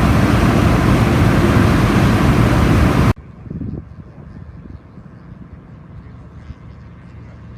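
Atlas Imperial marine diesel engine running loudly and steadily. The sound cuts off abruptly about three seconds in, leaving a much quieter low rumble with a brief low thud just after the drop.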